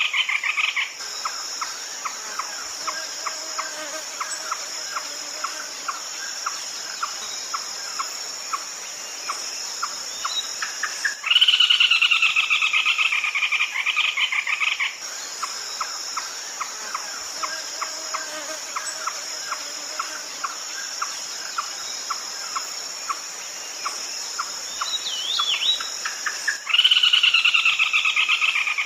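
Red-legged crake lure recording: a loud, rapidly pulsed call lasting three to four seconds comes round about every 15 seconds, with a steady series of soft clicking notes at about two or three a second between the calls. A constant high insect drone runs underneath.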